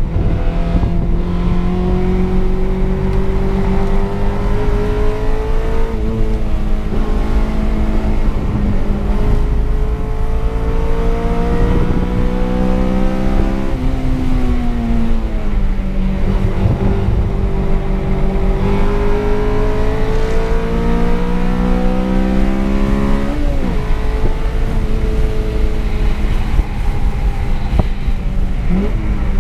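Honda Civic's K20 four-cylinder engine heard from inside the cabin on a track lap, climbing steadily in pitch under full throttle and dropping at each gear change, several times over, with tyre and wind noise underneath.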